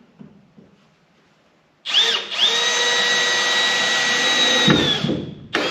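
Milwaukee M12 hammer drill/driver driving a screw into a wooden board. About two seconds in, the motor spins up with a rising whine, runs steadily for about three seconds and stops. A second short burst follows near the end.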